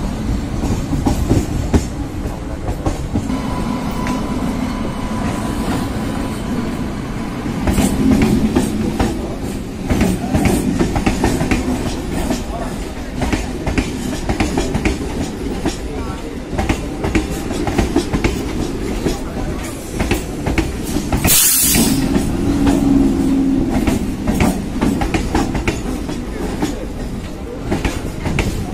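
Electric multiple-unit suburban train heard from its open doorway, running into a station: a steady rumble with wheels clacking over rail joints and points. A short, sharp hiss cuts in about two-thirds of the way through.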